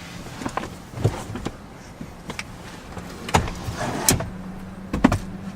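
A string of clicks and clunks from a Buick Enclave's second-row seat being worked by its lever and slid along its track, over a steady low hum.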